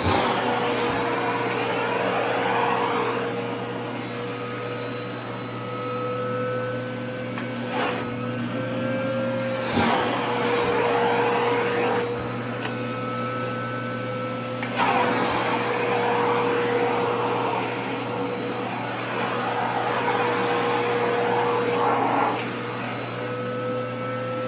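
Vacuum cleaner running with a steady motor whine and rushing air, as skirt fabric is sucked against the nozzle; the airflow sound shifts several times, with a couple of sharp knocks about 8 and 10 seconds in and the rush growing louder about 15 seconds in.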